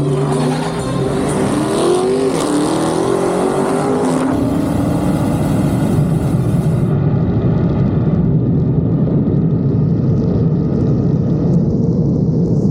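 Dodge Charger V8 engine revving hard for a burnout, its pitch climbing over the first few seconds, then settling into a loud, steady rumble.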